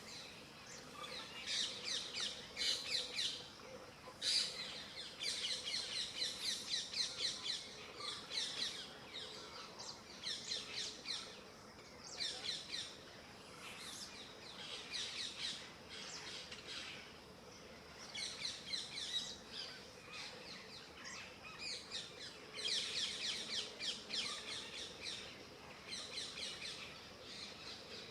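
A chorus of small birds chirping in quick, chattering runs of rapid falling notes, in bouts of a second or more, over a faint steady hum.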